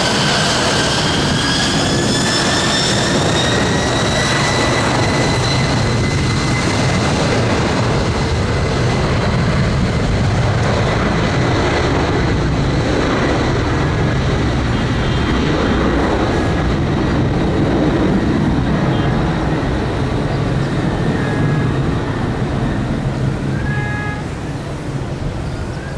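Airliner's engines at high power: a whine rises in pitch over the first few seconds and then holds steady over a heavy, continuous roar. The roar eases a little near the end.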